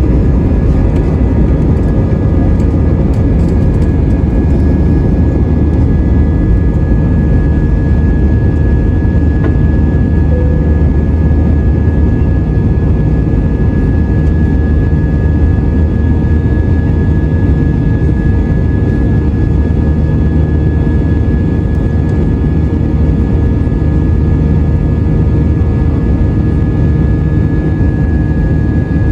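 Airbus A320's jet engines running steadily, heard inside the cabin: an even low roar with a steady high whine over it.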